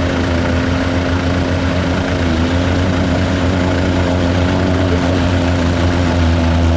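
A vehicle engine running steadily at a constant low pitch, with no revving or change in load.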